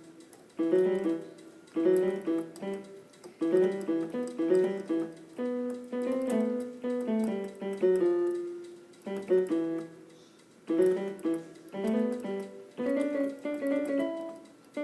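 Piano being played in short phrases of notes and chords, broken by brief gaps. The playing is unpolished, by a self-confessed bad piano player.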